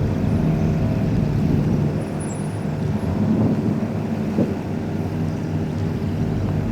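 Car engine running steadily, a low pitched hum with slight shifts in pitch partway through.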